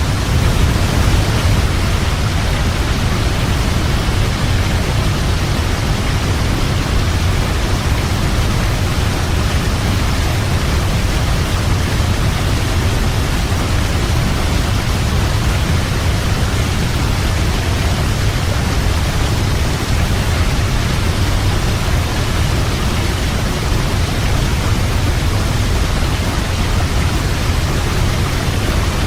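Waterfall: water falling in a steady, unbroken rush, heaviest in the deep low end.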